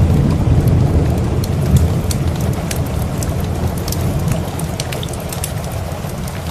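Steady rain with a low rumble of thunder that slowly fades away, and scattered sharp ticks and crackles on top.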